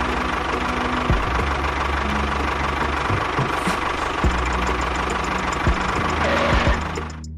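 An engine running steadily with a low hum and a few knocks, cutting off shortly before the end.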